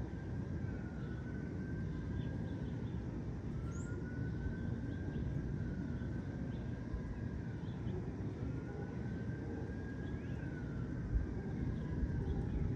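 Low, steady rumble of distant city traffic, with a high tone that slowly rises and falls over and over, each swell lasting two to three seconds, and faint scattered bird chirps.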